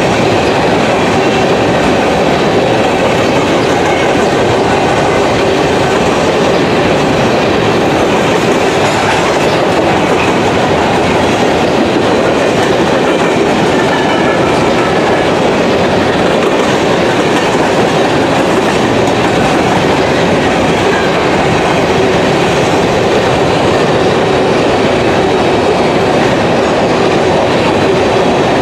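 BNSF freight train of covered hopper cars rolling past, its steel wheels on the rails making a steady, loud rumble, with a faint thin wheel squeal here and there.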